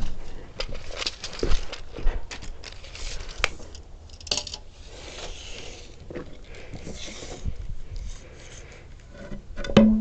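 Scattered light taps, clicks and rustling as wood and hand tools are handled, with a brief low tone just before the end.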